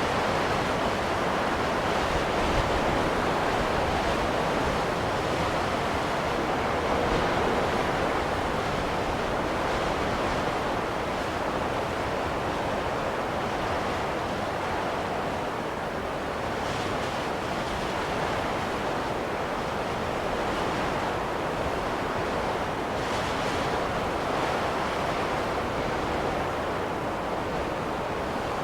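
Snowstorm wind blowing as a steady rushing noise, with slight swells and lulls.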